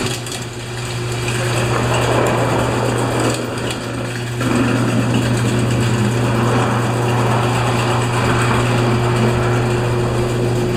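Electric garage door opener running as the door travels, a steady motor hum with a constant pitch and a rattling of the moving door over it.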